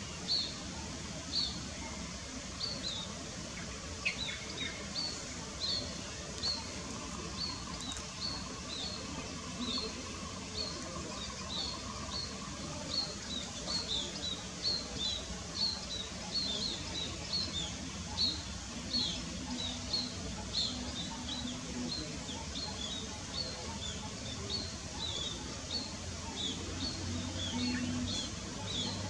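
A bird calling in a steady series of short, high chirps, one or two a second, over steady outdoor background noise.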